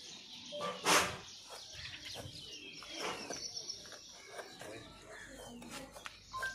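Small birds chirping, with short falling chirps repeated every second or two over a thin high twittering. About a second in comes one short, loud hiss-like noise, the loudest sound here, with scattered faint clicks and knocks around it.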